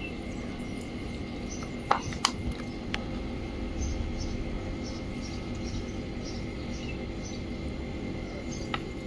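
A steady machine hum with several even tones, broken by a few sharp clicks about two to three seconds in and again near the end, with faint high chirps repeating in the background.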